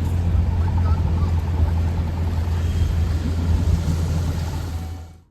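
Steady low rumble of city street traffic and engines, fading out near the end.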